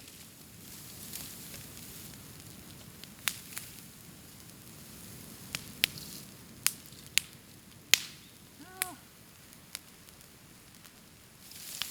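Bonfire of cut bamboo, including old dead canes, burning with a steady crackle and a string of sharp, loud pops from the burning bamboo. A brief pitched squeak is heard just before nine seconds.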